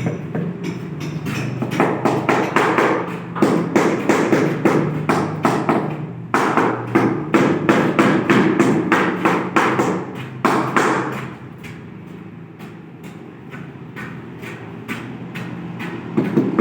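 Rapid, repeated tapping on a large ceramic tile, about five or six knocks a second in runs of several seconds, fainter for a few seconds near the end, over a low steady hum.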